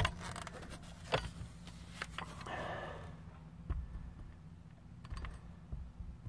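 Scattered knocks and taps from tools and materials being handled, with one sharp knock at the start and a brief scrape about two and a half seconds in.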